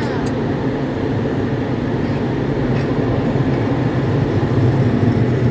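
Automatic car wash equipment running steadily through one of its final stages, heard from inside the car: a loud, even rush with a low hum beneath it.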